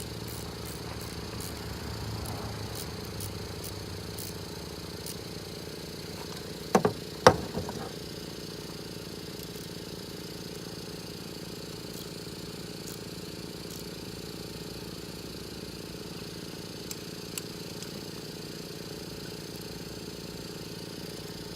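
Hand-tool work tightening a bolt on a turbocharger: faint light clicking, then a few sharp metal clinks about seven seconds in. A steady mechanical hum runs underneath.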